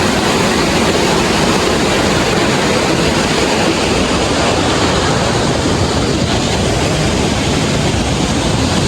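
River water rushing past in a loud, steady roar.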